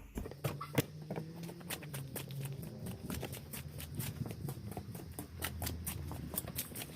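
Footsteps walking, with irregular light clicks and scuffs of handling.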